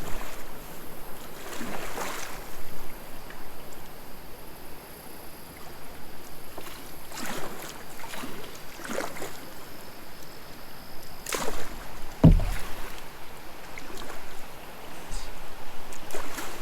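Kayak paddle strokes splashing in the water every second or two, over a steady watery hiss, with one dull thump about twelve seconds in.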